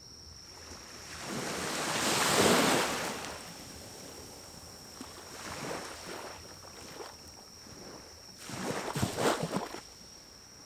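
Pine-cone fire in a small wood-burning stove, with rushes of air that swell and fade: a strong one about two seconds in, a weaker one around six seconds and a fluttering one near nine seconds. A steady high whine runs underneath.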